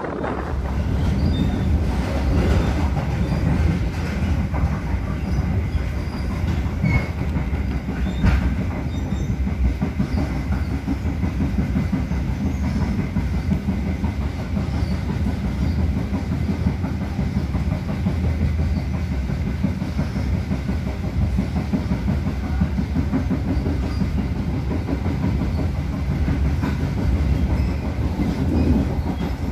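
Passenger train coach running along the track, heard from inside the carriage: a steady low rumble of wheels on rails with some clickety-clack.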